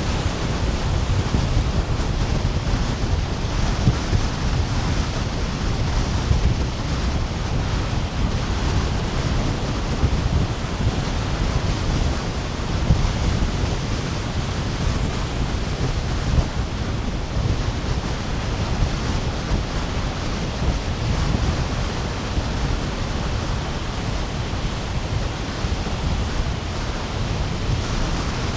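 East Sea surf breaking and washing over a sandy beach: a steady, unbroken rush of waves, with a deep wind rumble on the microphone.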